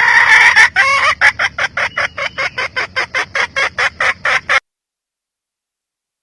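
Red junglefowl hen cackling: a drawn-out call, then a quick series of short clucks at about five a second, which stops abruptly partway through.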